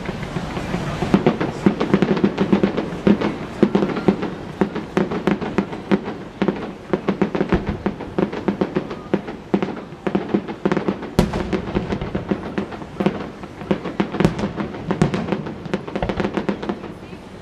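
A fireworks display: a dense, continuous barrage of crackling pops and bangs in rapid succession, with one sharper bang about eleven seconds in.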